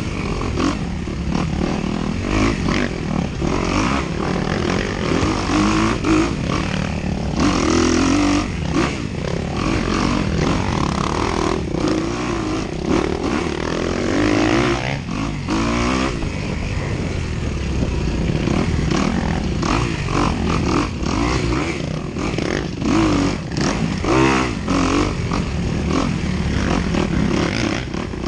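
Dirt bike engine running hard, its pitch rising and falling as the throttle is worked on and off, with frequent knocks and clatter from the bike over rough ground.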